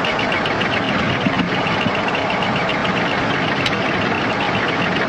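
Steady aircraft cockpit noise of engines and airflow on a cockpit voice recording, with a faint, rapidly pulsing high tone running through it.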